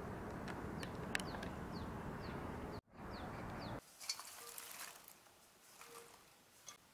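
Outdoor background with a steady rush and short, high, downward bird chirps, one or two a second. A little under three seconds in, this cuts to quieter water sounds: drips and a faint trickle in a stainless steel bowl of water where stonecrop is being rinsed.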